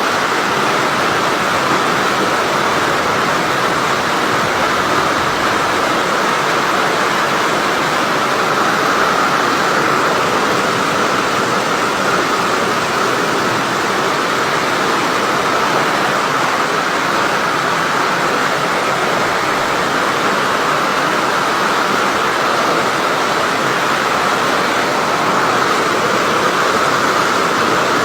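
Heavy tropical downpour: dense, steady hiss of rain that does not let up.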